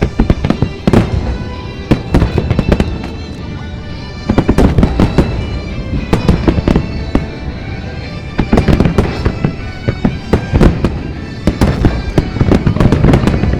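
Aerial fireworks shells bursting in rapid clusters of sharp bangs, with music played along with the display.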